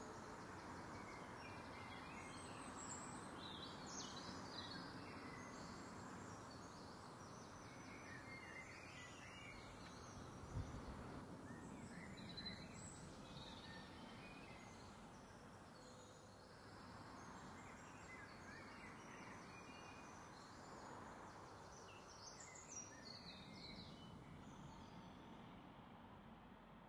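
Faint outdoor garden ambience: birds chirping and singing on and off over a low steady background hiss, with a single soft knock about ten seconds in.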